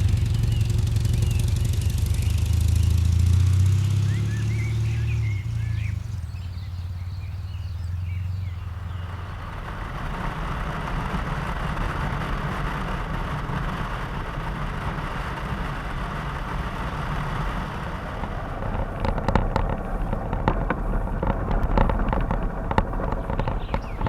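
Motorcycle engine running steadily for the first few seconds, then giving way to a steady rushing noise, with clattering and rattling near the end.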